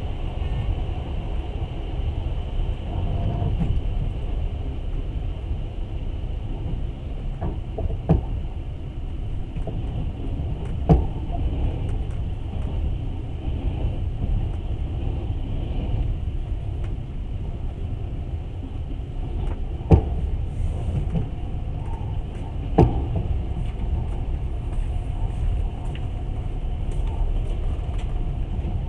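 Passenger train running, heard from inside the carriage: a steady low rumble of wheels on the track, with four sharp knocks spread through it.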